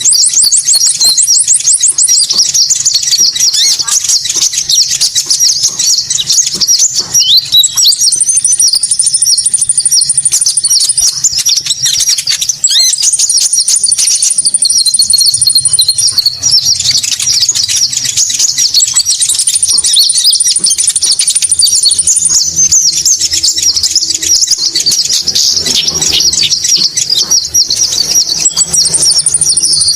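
Bird-luring recording of konin bird calls: dense, loud, high-pitched chirping without a break, with a very high rapid trill of two to three seconds that comes back about every six seconds.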